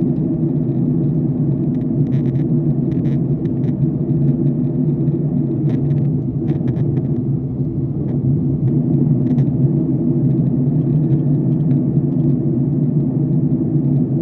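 Steady low drone of a jet airliner's cabin in flight, engine and airflow noise, with a few faint light clicks scattered through it.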